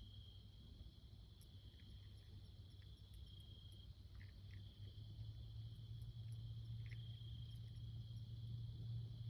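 Faint, steady high-pitched trilling of insects, with a low hum growing louder toward the end and a few small clicks.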